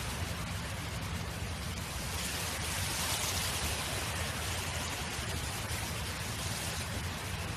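Wind blowing steadily, a continuous rushing with a low rumble beneath it, swelling in a gust about two to three seconds in.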